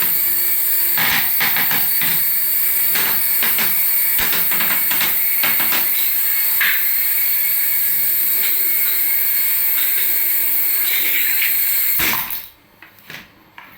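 Small electric motor of a remote-control toy whirring at a steady high pitch, with many short knocks and clatters. It cuts off suddenly about twelve seconds in, followed by a few light clicks.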